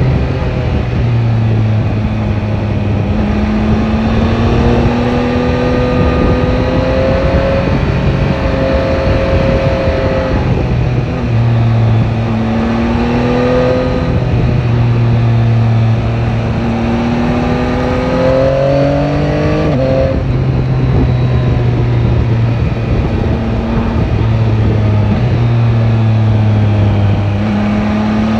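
Yamaha Tracer 9 GT's three-cylinder engine pulling along a road, mixed with wind and road noise. Its note climbs slowly and drops back several times, sharply about twenty seconds in, as gears change.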